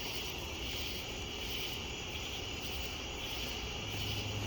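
Night insect chorus, a steady high-pitched trill, over a constant low rumble; a low steady hum comes in near the end.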